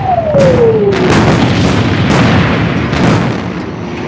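Film sound effects of an air raid: loud bomb explosions, about four in four seconds over a deep rumble, with a whistle falling in pitch during the first second and a half.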